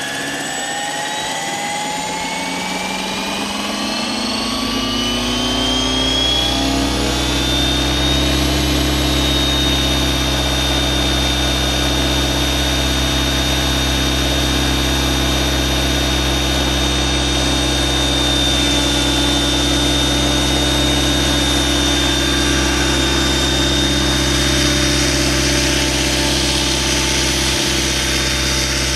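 Electric RC helicopter built on Align T-Rex 550e mechanics stretched to 600 size, spooling up. The motor and gear whine rises in pitch over the first several seconds, and a low rotor drone builds. It then holds a steady pitch at head speed for the rest of the time.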